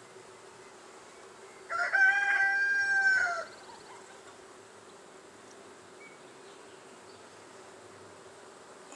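A rooster crows once, a single drawn-out call of nearly two seconds that drops in pitch at the end, over the steady hum of honey bees buzzing around an open hive.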